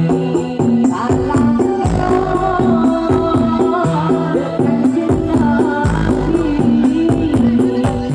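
Loud music with a steady beat and a repeating stepping melody, played through a carnival sound system.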